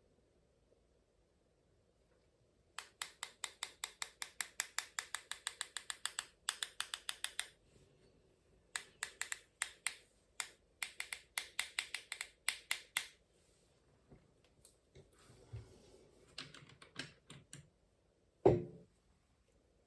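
A paintbrush tapped rapidly to flick watercolour splatter onto the paper: two runs of sharp taps, about six a second, then a single louder dull knock near the end.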